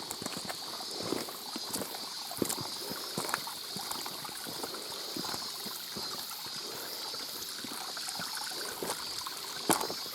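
Mountain stream water trickling and running over rocks, with scattered footstep knocks and light clicking rattles from a loose video camera monitor.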